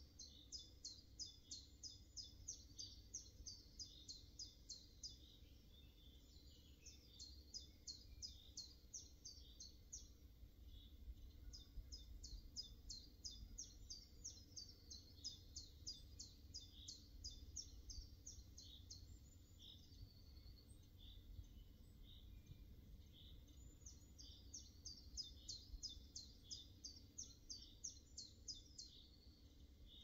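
Songbirds singing faintly in runs of rapid, high repeated chirps, each run lasting a few seconds with short gaps between, over a steady low rumble.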